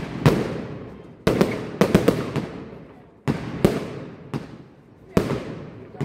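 Aerial firework shells bursting: a string of sharp bangs in quick clusters, each trailing off in an echoing rumble.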